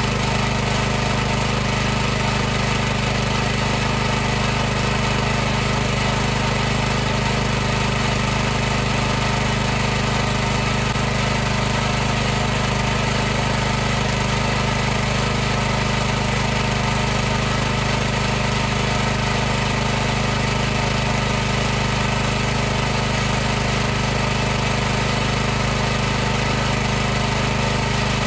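High-pressure washer running continuously: an unchanging machine hum with several steady low tones over an even noise.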